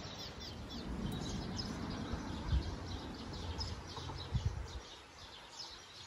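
Birds chirping over and over in short, quickly falling notes, over a low rumble that stops near the end. Two dull thumps stand out, about two and a half and four and a half seconds in.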